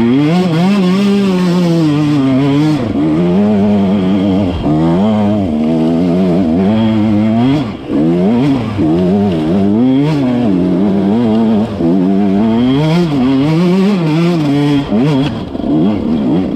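Dirt bike engine being ridden hard, its pitch rising and falling continuously as the throttle is worked, with brief drops every few seconds where the throttle is rolled off or a gear is changed.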